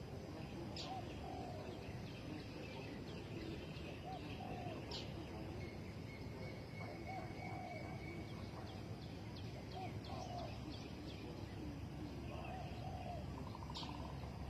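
Spotted doves cooing faintly: short coo phrases repeated every two to three seconds. Small birds chirp high above them, and a steady low rumble runs underneath.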